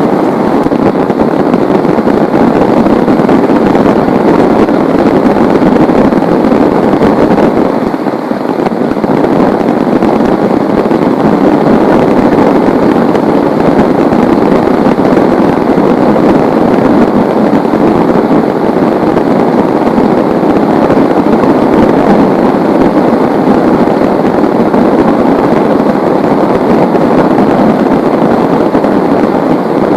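Heavy rain pouring down in a steady, dense hiss, dipping briefly about eight seconds in.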